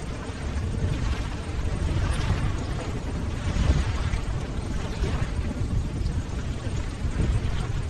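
Ocean surf: waves rolling and breaking in a continuous deep rumble, swelling and easing a little from moment to moment.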